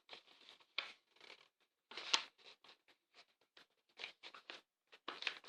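Faint rustling and scraping of a sheet of paper being folded and creased by hand, in short uneven strokes, with a sharper crackle about two seconds in.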